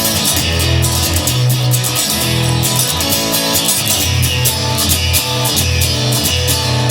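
Instrumental break in a rock song: guitars playing over a pulsing bass line and a steady drum beat.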